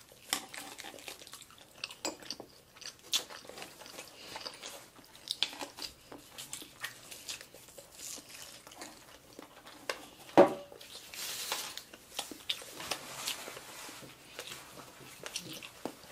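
Close-up chewing and biting of sushi, with short crisp crackles from nori seaweed being bitten and chewed. One louder knock about ten seconds in.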